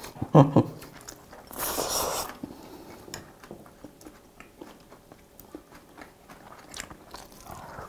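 A man chewing a full mouthful of food: many faint, wet mouth clicks, with a louder noisy burst about two seconds in and a short hum at the very start.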